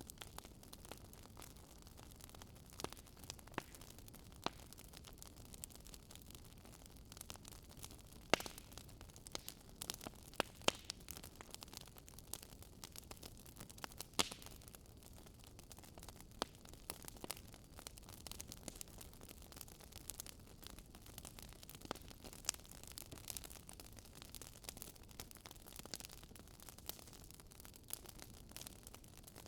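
Wood fire burning with a steady low hiss and frequent irregular crackles and pops, a few sharper snaps standing out about 8, 10 and 14 seconds in.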